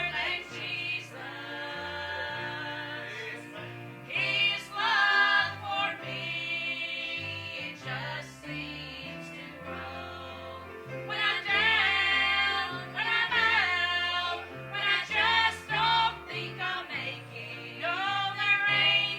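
Gospel song sung by several voices with instrumental accompaniment, the sung lines wavering with vibrato over a bass line that steps from note to note.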